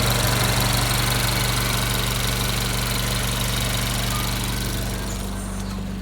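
2018 Honda Accord engine idling steadily with the newly fitted A/C compressor engaged, the system freshly recharged. The higher whir over the idle eases off near the end.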